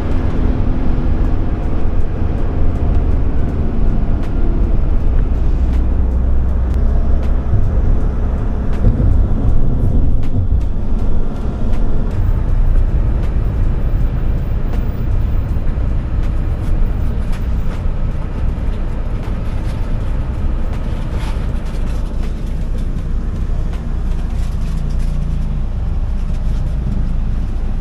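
Steady low rumble of a moving road vehicle, with music faintly mixed in.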